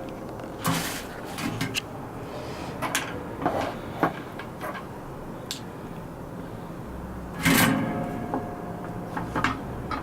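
Handling of tools and small parts on a workbench: scattered clicks, light knocks and scrapes, with two louder rustling scrapes, one near the start and one about three quarters of the way through.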